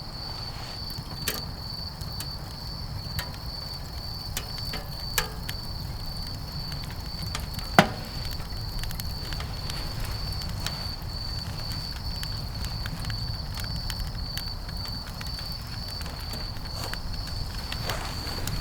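Wood fire burning in a small camping wood stove: scattered crackles over a steady low rumble, with one sharp pop about eight seconds in. A rapidly pulsing high tone runs throughout.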